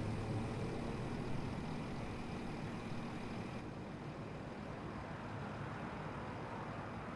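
Passenger train running along the line: a steady rumble and hiss, with a low hum that fades about halfway through.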